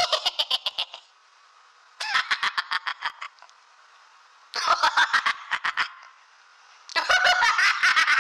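Cackling sound effect: four short bursts of rapid, chattering pulses, each about a second long and a couple of seconds apart.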